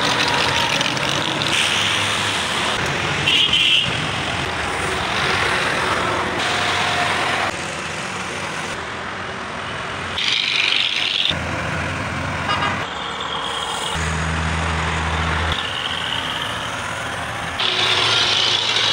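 Heavy trucks running on a road: engine and tyre noise whose character changes abruptly every second or few. A low, steady engine tone stands out for a moment about two-thirds of the way in.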